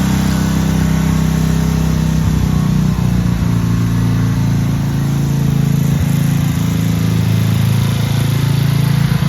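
Craftsman LT2500 lawn tractor engine running at a steady pitch as the tractor is driven.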